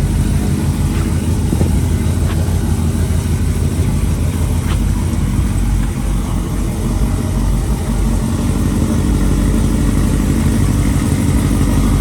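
Pickup truck engine running steadily, a low rumble with no change in pitch.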